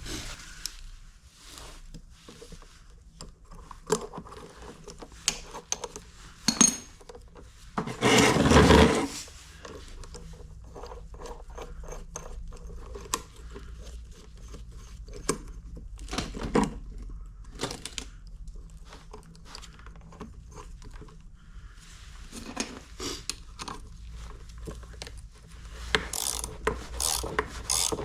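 Scattered clicks, knocks and scraping of hand tools and parts being handled, with one loud scrape lasting about a second roughly eight seconds in and a run of quick clicks near the end.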